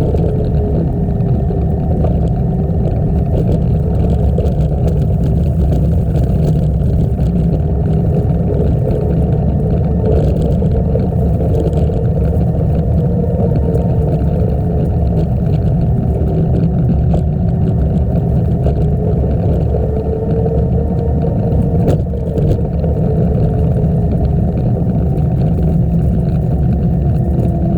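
Wind rushing over the microphone of a moving bicycle: a loud, steady low rumble, with a faint hum that slowly rises and falls in pitch.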